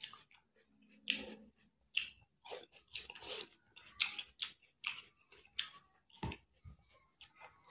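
A person chewing a mouthful of food with lip-smacking mouth sounds, heard as a run of short, irregular clicks and smacks several times a second.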